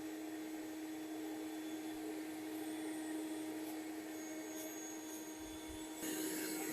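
Bee vacuum running with a steady hum, its note holding level throughout.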